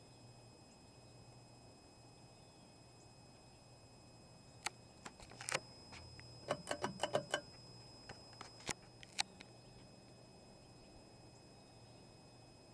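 1987 Montgomery Ward Evergo hugger ceiling fan running with a faint, steady low hum. Near the middle comes a burst of about a dozen sharp clicks and light rattles, bunched most thickly in the middle of the burst, then the hum goes on alone.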